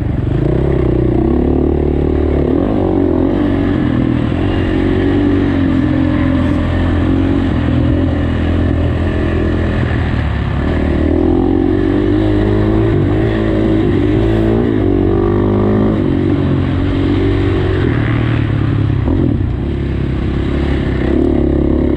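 Motocross dirt bike engine revving up and down repeatedly, the pitch rising and falling again and again as it is ridden around the track.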